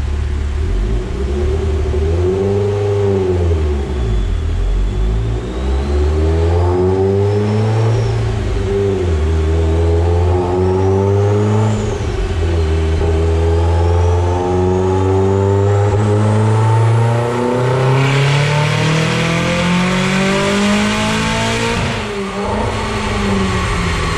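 Mitsubishi Evo X's turbocharged 2.0-litre four-cylinder (4B11T with a Garrett G25-660 turbo) running on a chassis dyno, its revs climbing and falling several times with a high turbo whistle rising alongside. Then it makes a loud full-throttle pull at about 18 psi of boost on 93-octane fuel, which ends with a lift-off a couple of seconds before the end.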